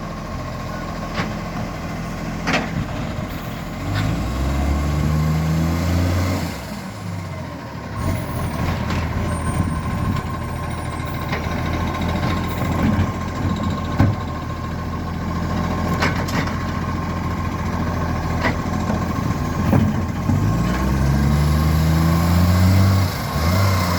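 Vehicle engine idling and revved up twice, with sharp pops and ticks scattered through it from an exhaust leak.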